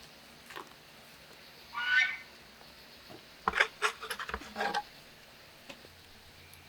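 A single short, honk-like bird call about two seconds in, followed by a quick, irregular run of knocks and clicks.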